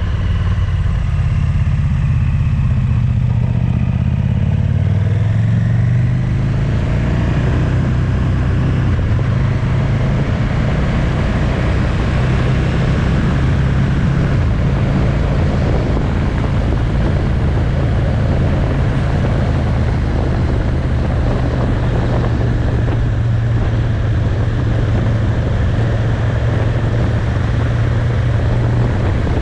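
Motorcycle engine running on the move. Its pitch shifts over the first several seconds, then holds steady under a thickening rush of wind and road noise.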